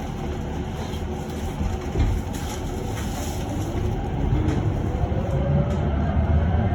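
Cabin noise of a moving electric bus: a steady low rumble from the tyres and body with a few light knocks, and a faint electric traction-motor whine rising in pitch from about four seconds in as the bus picks up speed.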